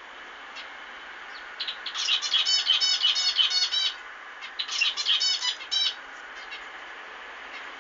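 Zebra finches singing: two bursts of fast, repeated buzzy notes, the first lasting about two seconds starting a couple of seconds in, the second shorter around the five-second mark, with faint short calls between and after.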